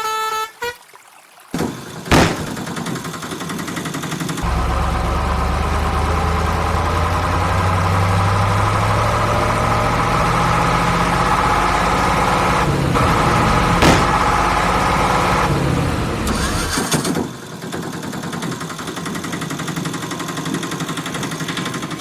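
A vehicle engine running loudly for about twelve seconds, with its pitch slowly shifting, then dropping away to a quieter hiss. A sharp click comes about two seconds in.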